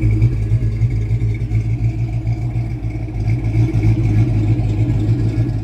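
A car engine idling steadily with a deep, even rumble.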